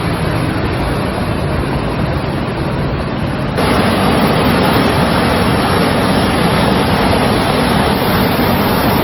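Steady rushing of floodwater. About three and a half seconds in it cuts abruptly to a louder, brighter stretch of rushing.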